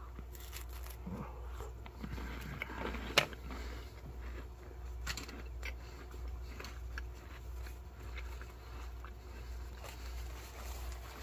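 Biting into a crisp ration cracker spread with jelly and chewing it: one sharp crunch about three seconds in, then faint chewing and small crackles, over a low steady hum.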